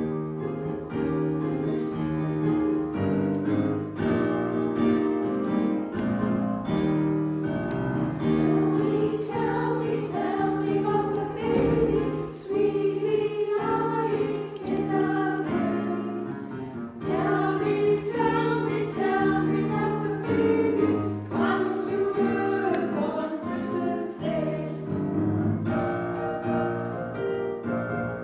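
Choir of sopranos and altos singing in parts, with piano accompaniment.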